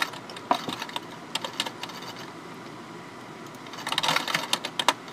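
Computer keyboard being typed on in short irregular bursts, busiest about four seconds in, heard over a phone line.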